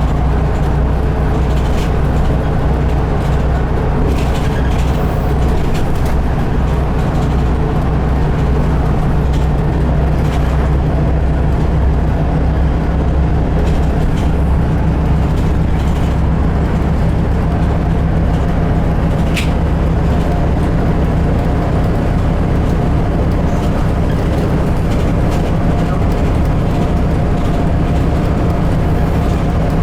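Volvo B8RLE city bus running at a steady pace, its diesel engine and drivetrain giving a steady low drone, with light rattles and a short squeak about two-thirds of the way through.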